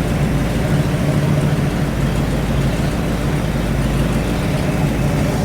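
Engine of a home-built rat rod idling steadily on its first run.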